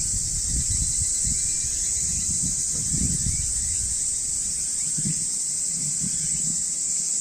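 Steady, high-pitched chorus of night insects, with irregular low rumbling underneath.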